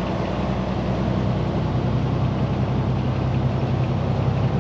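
Diesel truck engine running steadily at an even speed, with a constant low hum and no change in pitch.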